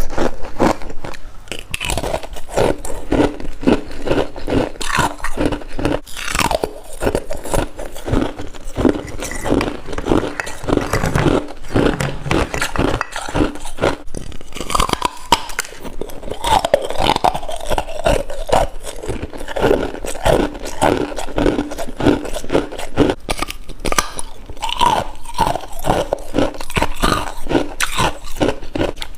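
Close-up biting and chewing of soft freezer frost: dense, rapid crunching with a few small squeaks.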